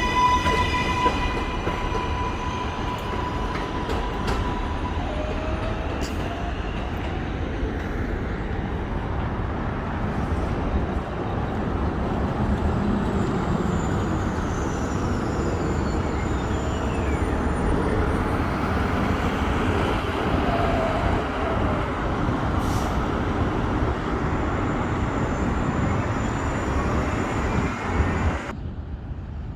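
A New York City 7 subway train running on the elevated line: a steady loud rumble of wheels on the track. A high steady tone fades out in the first few seconds, and the sound drops off suddenly near the end.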